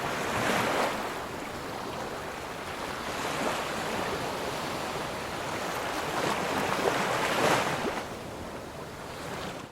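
Water waves washing: a steady rush that swells and eases every few seconds, fading out at the end.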